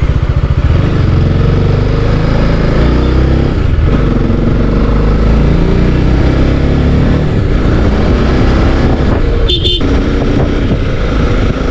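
TVS Apache RR 310 motorcycle's single-cylinder engine running while the bike is ridden, its engine speed rising and falling, over heavy low rumble.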